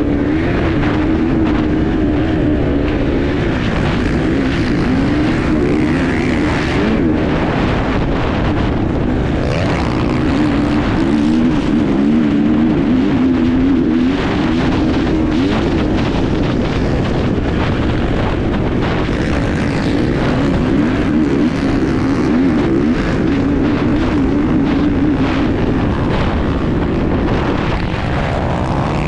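Enduro dirt bike engine heard from on board, its pitch wavering up and down as the throttle is opened and closed. A constant rush of noise and frequent short knocks run under it.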